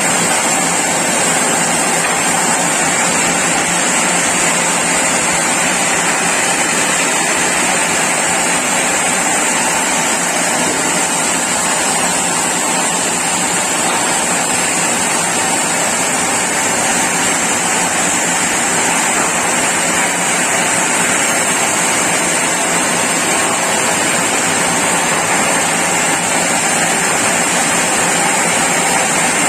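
Sawmill saw running steadily: a constant rushing mechanical noise with a steady high whine, unchanged throughout.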